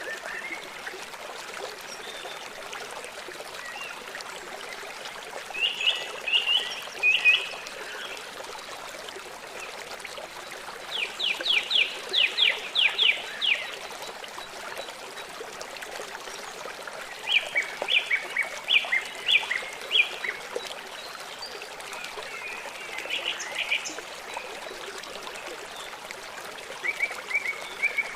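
Small songbirds singing in short phrases of rapid repeated high notes, about five phrases a few seconds apart, over a steady hiss of running water.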